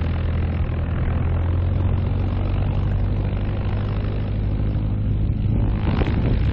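Light propeller plane's piston engine running steadily at low speed, a low, even hum.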